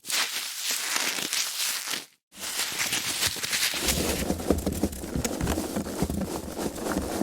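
Foam packaging being handled, squeezed and rubbed, giving a dense crackling with many small clicks. It breaks off for a moment about two seconds in, then resumes, and from about four seconds in a deeper rubbing joins the crackle.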